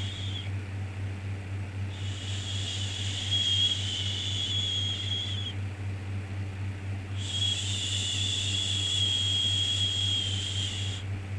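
Repeated drawn-out 'shhh' shushing sounds, each lasting about three and a half seconds with a pause of a second or two between them, over a steady low hum. One shush ends about half a second in, and two more start about 2 and 7 seconds in.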